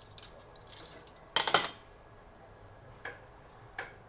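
A plate and kitchen utensils clinking as fried chicken is dished out: light clicks, then one loud rattling clatter about a second and a half in, and two softer knocks near the end.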